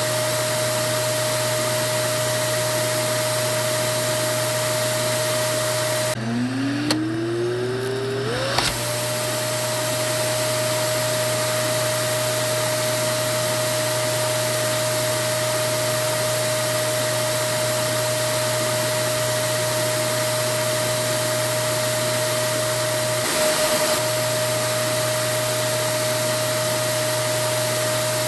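Vacuum cleaner running steadily: a constant rush of air with a steady motor whine. About six seconds in the airflow drops out and the whine climbs in pitch for a couple of seconds, as the motor spins back up to full speed.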